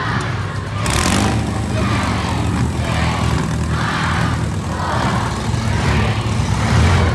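Several four-cylinder demolition derby cars' engines running together at idle, a steady low rumble.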